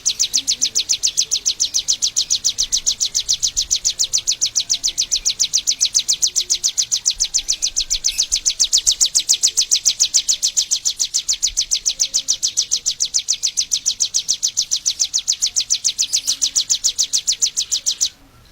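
Bar-winged prinia (Prinia familiaris) calling: a fast, very even series of high-pitched chirps, about five a second, that cuts off suddenly near the end.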